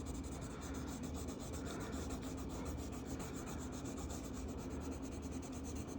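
Marker tip rubbing on paper as a coloring-book page is filled in, a steady run of quick back-and-forth strokes.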